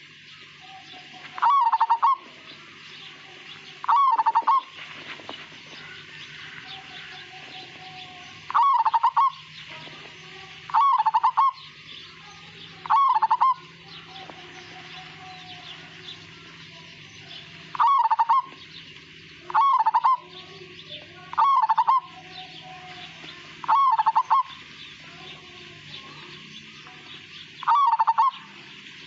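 Zebra dove (perkutut, of the local Majapahit type) cooing: its short, rolling song phrase is repeated about ten times, in loose runs separated by pauses, over a steady background hiss.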